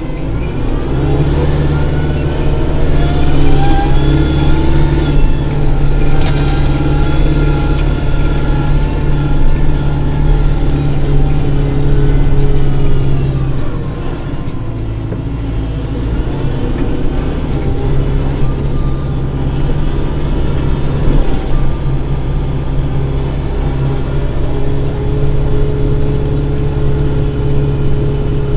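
Kubota tractor's diesel engine running steadily under load while snow blowing, with a fainter higher whine over the engine note. The engine dips briefly about halfway through, then settles back to a steady pull.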